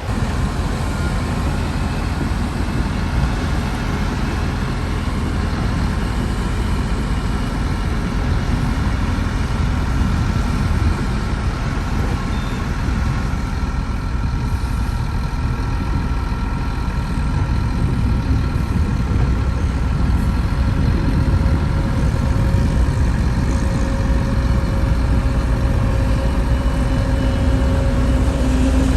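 Heavy diesel earthmoving machinery running steadily with a deep rumble, growing slightly louder toward the end.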